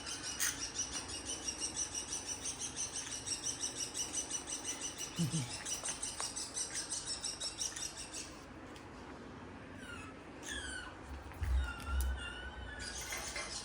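Bird chirping in a fast, even series, about four or five chirps a second, for the first eight seconds; after a short lull, a few calls that slide down in pitch, with a couple of low thumps near the end.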